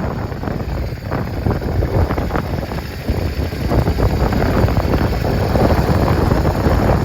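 Yamaha Drag Star 400 (VH02J, fuel-injected) air-cooled V-twin engine running, a steady low, uneven rumble.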